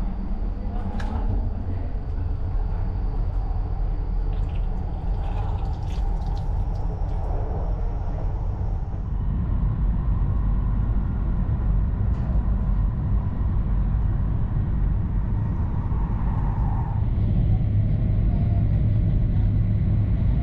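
Running noise heard inside the cabin of an E2 series Shinkansen: a steady low rumble with a faint whine, a few light clicks early on, and the level stepping up about halfway through and again near the end.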